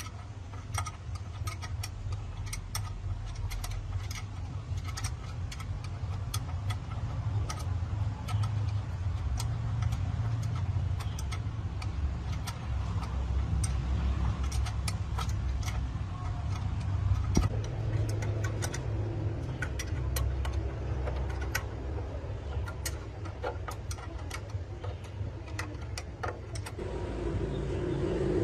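Truck engine running steadily with a low rumble, with scattered metallic clicks and clinks over it, getting louder near the end.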